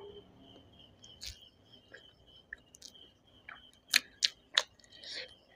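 Quiet close-up chewing of rice and chicken curry with scattered wet mouth clicks and lip smacks, three sharp smacks coming close together a little past the middle.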